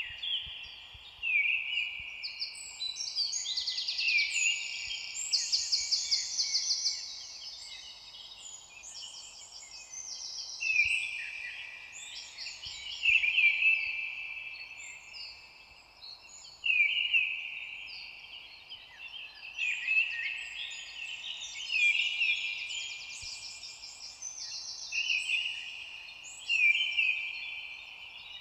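A chorus of songbirds singing. Several birds overlap, with high trills and repeated whistled phrases, a new song starting every two or three seconds over a faint steady hiss.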